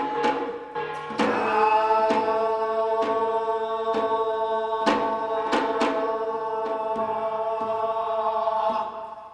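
One long note held steadily in a Korean biniri blessing chant, over sparse strikes of traditional Korean percussion about once a second.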